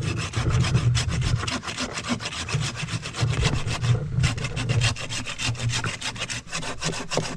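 Hand saw cutting through a fallen tree trunk in quick back-and-forth strokes, with a brief pause about halfway through.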